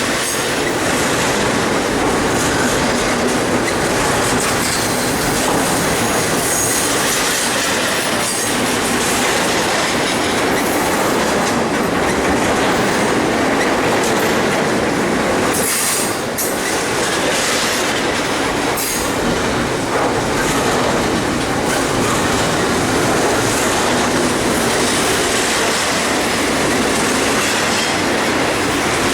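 Railroad cars rolling past close by, steel wheels clattering over the rail joints with some wheel squeal, steady and loud.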